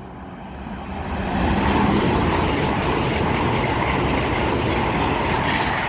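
Avanti West Coast Evero, a Class 807 electric multiple unit, passing through the station at speed. A rushing roar of wheels on rail and air builds over the first second or two, then holds steady.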